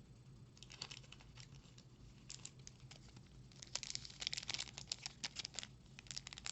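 Foil booster pack wrapper crinkling as it is handled, with trading cards being shuffled: a string of light crackles and clicks that grows denser a little past halfway.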